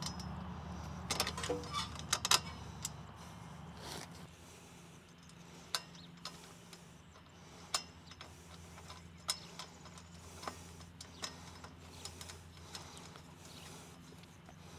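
Small metal clicks and clinks of bolt hardware being fitted and turned on a steel mount frame: a quick run of clicks about a second in, then single clicks every second or two. A faint steady low hum lies underneath.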